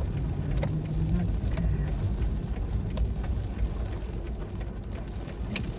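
Car running, heard from inside the cabin: a steady low rumble, with a few faint clicks.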